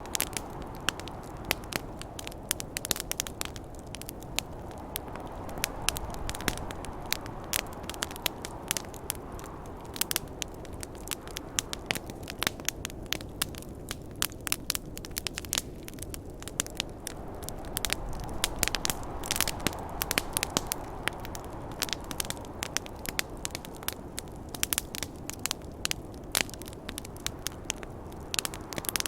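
Campfire crackling with frequent sharp pops over a steady rush of snowstorm wind, which swells twice.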